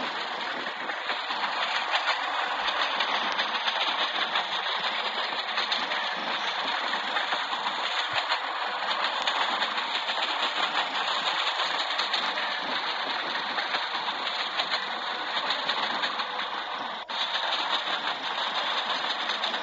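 Train noise: a steady, even mechanical rush with a brief sharp drop about seventeen seconds in.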